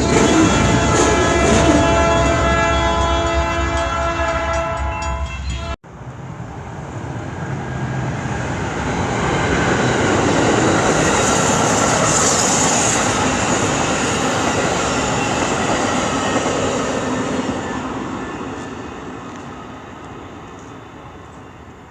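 Locomotive air horn sounding a long chord of several steady tones, cut off abruptly about six seconds in. Then a train rolls past, its noise building and then fading away.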